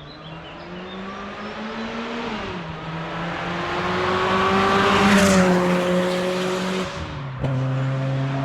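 Golf mk2 GTI's 2-litre 8-valve four-cylinder with a G60 supercharger and straight-through 55 mm exhaust, revved twice: the pitch climbs and falls back each time, the second rev higher and louder. Near the end the sound switches abruptly to a steady, louder idle.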